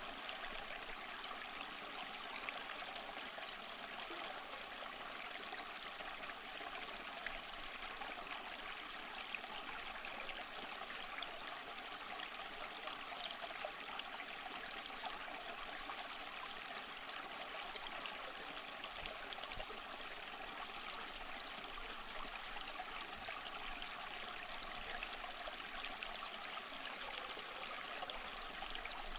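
Waterfall: water rushing and splashing steadily, a continuous hiss with fine splashes and little low rumble.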